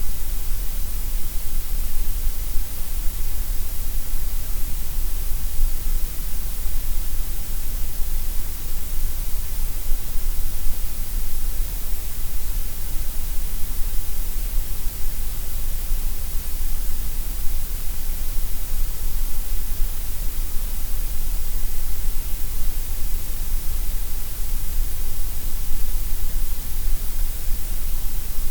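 Synthetic gray noise: a steady, unbroken hiss with no changes, fuller in the deep bass and the high treble than in the middle range.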